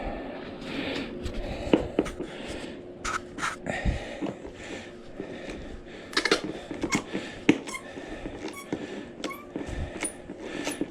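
Socket ratchet with an extension working a bolt loose, clicking in short irregular runs with metal scrapes and knocks, and the worker breathing hard. The ratchet is stiff and dry, in need of oil.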